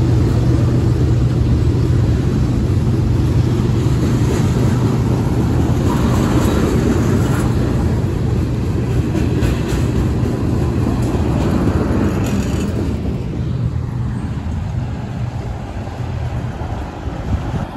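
Freight train cars rolling past on the rails: a steady rumble of steel wheels on track, with brief high metallic squeals and clanks in the middle, fading over the last few seconds as the end of the train pulls away.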